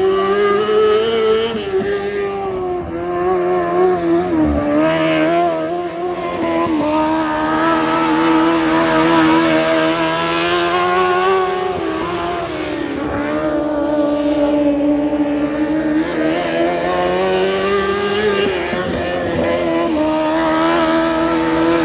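Race car engine running hard on track at high revs, its pitch dipping briefly three times as the driver lifts off, then climbing back as he gets on the throttle again.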